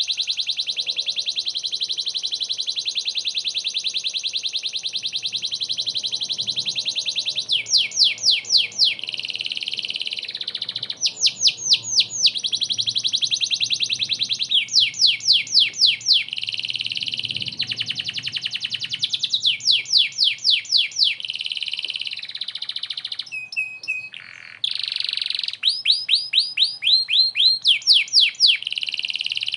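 Domestic canary in full, non-stop song: long, very fast high trills that switch every few seconds to runs of quick falling notes, about five a second.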